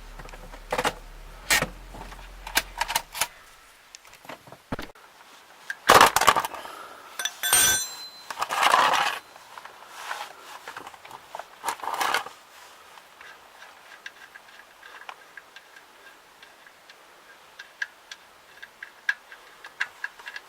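Scattered clicks, knocks and metal clinks of parts and tools being handled, busiest about six to nine seconds in, where one clink rings briefly.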